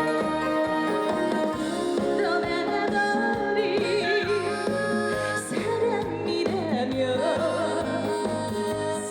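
Live trot song: a woman singing with wide vibrato over a recorded backing track with a repeating bass pattern.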